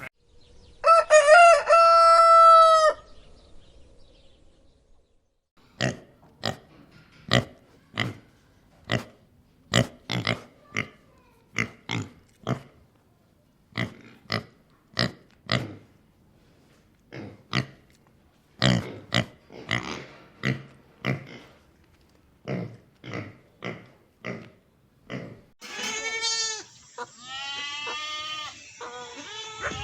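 Farm animal calls in turn: a rooster crows once near the start, then a hen gives a long run of short, sharp clucks at uneven intervals, and in the last few seconds a goat bleats with a quavering call.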